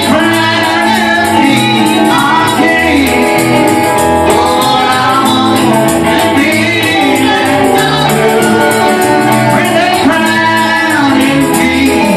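Live gospel music with singing, a steady beat and a tambourine shaking along.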